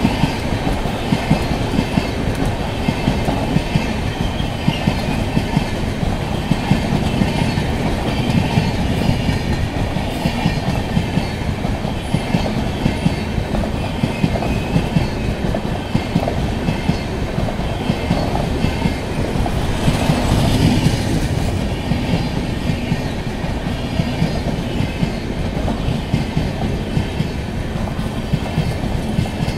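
Express passenger train coaches rolling past, the wheels clicking over and over at the rail joints over a steady rumble.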